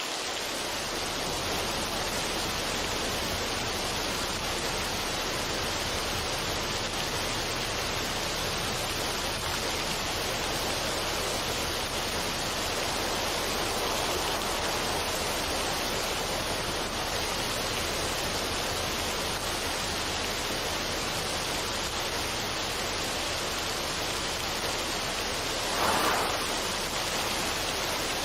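Steady, even rushing noise with no melody or beat, swelling briefly about 26 seconds in, like a recorded water or noise ambience.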